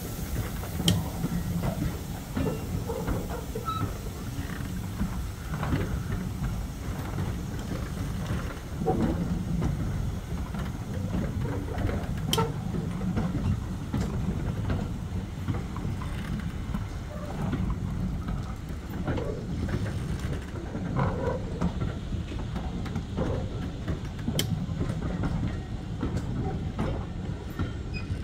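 A train running on the rails: a steady low rumble with a few sharp clicks and short squeals from the running gear.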